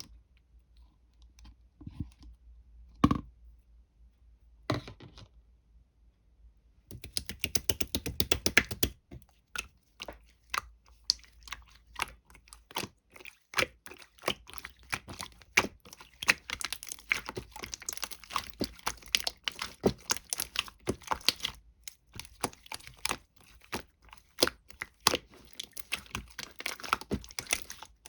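Runny, melted slime being squished and worked by hand: a few separate wet clicks in the first seconds, then a dense, continuous run of small sticky clicks and pops.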